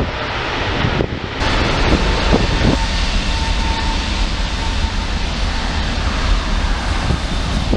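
Jet engines of a heavy wide-body airliner passing close by on the runway, a loud steady jet noise with deep rumble and a faint steady whine for a few seconds in the middle.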